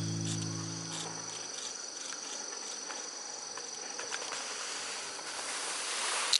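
A steady, high-pitched chorus of crickets and other insects in the forest, with background music fading out in the first second and a half. A brief hiss swells near the end and stops with a sharp click.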